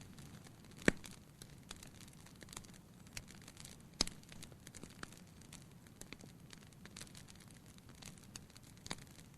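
Wood fire crackling in a fireplace: irregular small snaps, with two louder pops about a second in and about four seconds in.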